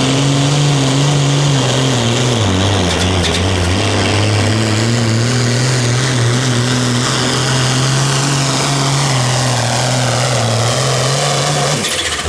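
Pulling vehicle's engine running hard at high revs under load during a pull. Its pitch dips about two seconds in, then holds steady, and it drops off sharply near the end.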